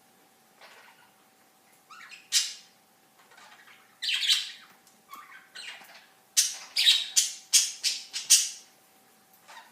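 Pet budgerigars giving short, harsh squawking calls in bursts: one about two seconds in, a longer call around four seconds, then a quick run of calls between about six and eight and a half seconds.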